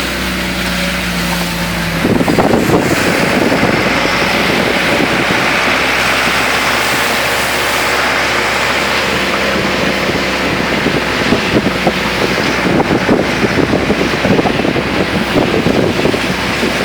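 Car driving on a rain-wet road: a steady engine hum, then about two seconds in a loud rush of wind and road spray comes in, with gusts buffeting the microphone.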